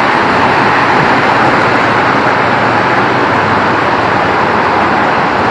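Very heavy rain falling steadily, a loud, even hiss with no let-up.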